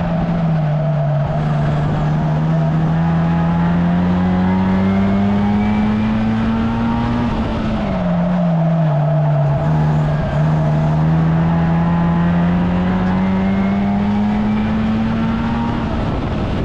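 1300cc stock car engine running hard in a race. Its note climbs slowly as it accelerates, falls sharply about seven seconds in, climbs again, and falls once more near the end.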